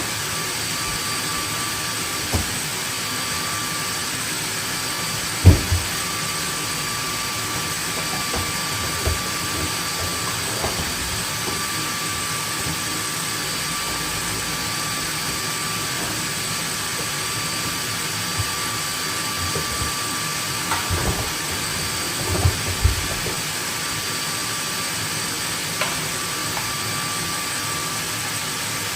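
Vacuum cleaner motor running steadily with a constant whine. There is a sharp knock about five and a half seconds in and a few lighter knocks later on.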